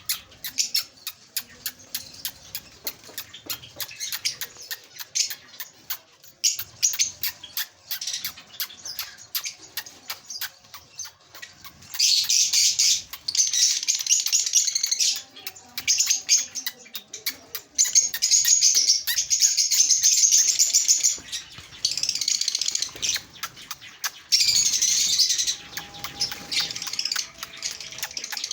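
Caged lovebirds and Java finches chirping: a run of quick, sharp chirps, then from about twelve seconds in loud, dense, high-pitched chattering in spells of one to three seconds with short breaks between.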